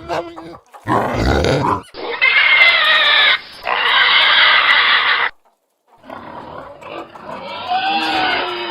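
Pigs grunting and squealing. There is a short low grunt, then about three seconds of loud, high squealing with a short break, then a sudden cut to silence, then quieter squeals and grunts.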